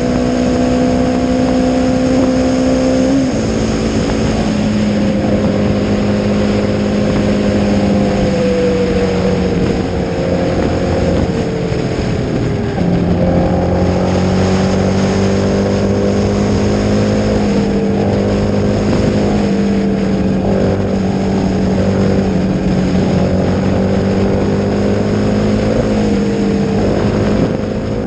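Honda CRF250's single-cylinder four-stroke engine running through a Leo Vince aftermarket exhaust at steady road speed. The revs drop about three seconds in and ease lower around ten to twelve seconds. They pick back up about thirteen seconds in, hold steady, then dip and rise again near the end.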